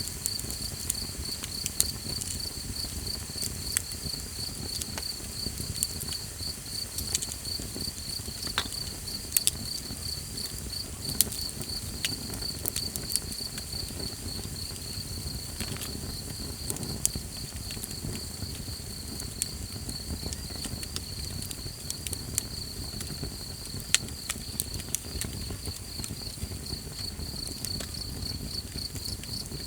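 Campfire crackling, with sharp irregular pops and a low steady rumble, over an unbroken fast, even chirping of crickets or similar night insects.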